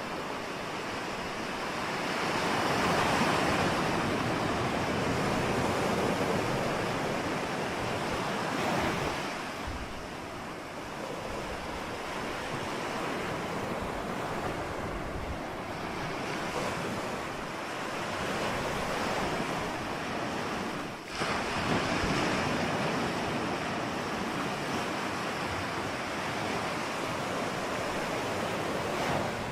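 Ocean surf: waves breaking and washing in as a continuous rush that swells and eases every several seconds.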